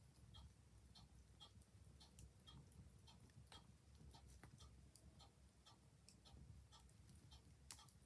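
Clock ticking evenly, about two ticks a second, over a faint crackling wood fire with a low steady rumble; one sharper crackle near the end is the loudest sound.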